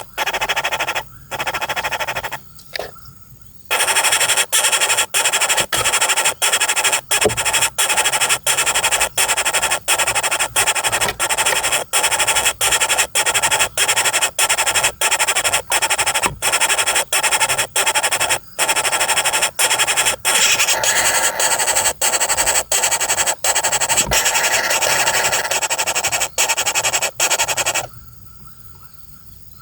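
Woodpecker nestlings begging from the nest hole: loud, harsh, hissing rasps repeated about twice a second, which stop abruptly near the end.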